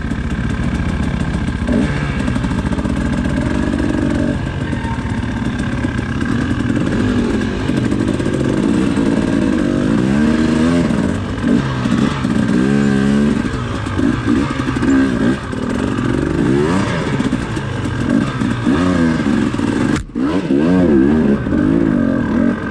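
A two-stroke dirt bike engine runs under load on a rocky trail. Its revs rise and fall continually as the throttle is worked, with some clatter. The sound breaks off briefly about twenty seconds in.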